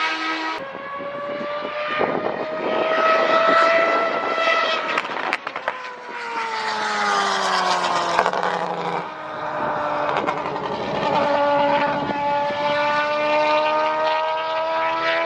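Racing engine running at high revs on track. Its pitch climbs for the first few seconds, breaks off about five seconds in, falls away for a few seconds, then climbs steadily again to the end.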